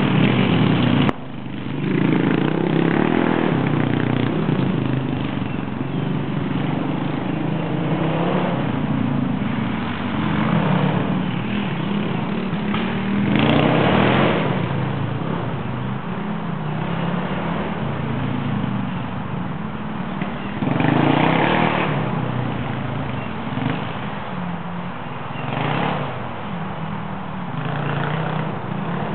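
Single-cylinder four-stroke dirt bike engine running, revving up and easing off again and again. There is a short sudden drop about a second in.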